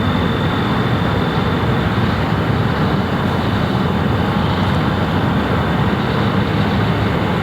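Jet airliner engines running loud and steady, with a thin high whine over the rumble that fades about halfway through.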